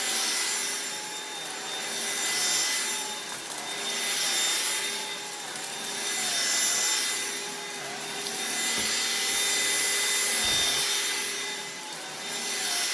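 Upright vacuum cleaner running with a steady motor whine and rushing air, swelling and fading about every two seconds.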